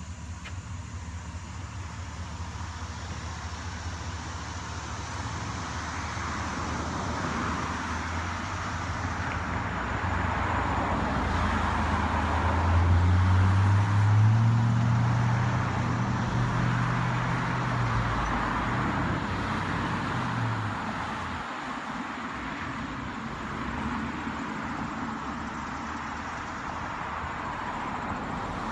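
A road vehicle passing: engine hum and tyre noise grow louder to a peak about halfway through, then fade away.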